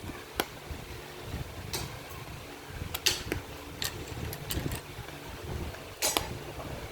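Low steady rumble with scattered sharp clicks and taps, about six in all, the loudest about three seconds in.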